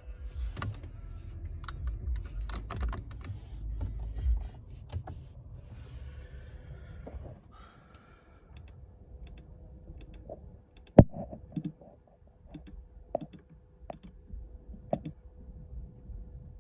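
A run of irregular sharp clicks and taps, the loudest about eleven seconds in, over a faint steady hum, with some low rumble in the first few seconds.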